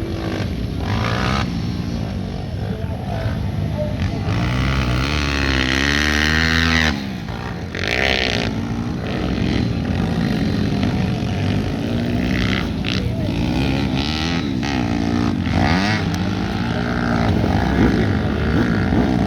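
Pit bike engines racing, their pitch climbing and dropping as the riders work the throttle through the track. One bike revs up hard for a few seconds and then chops the throttle about seven seconds in.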